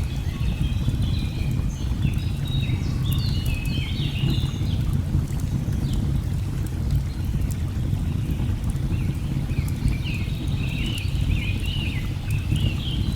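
Steady low rush of a waterfall, with birds singing in quick chirping phrases for the first few seconds and again from about two-thirds of the way in. A few faint crackles of a wood fire sound over it.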